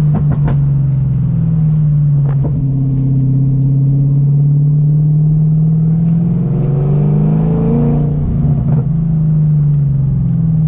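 Straight-piped BMW M60 V8 in an E30, pulling steadily on the road. Its note climbs about six to eight seconds in, then falls back. A couple of short knocks come in the first few seconds.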